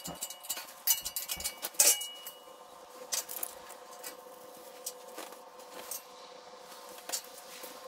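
Metal parts clinking and knocking together as they are handled. There is a quick cluster of sharp clinks in the first two seconds, one of them ringing briefly, then a few sparser taps, over a steady hum.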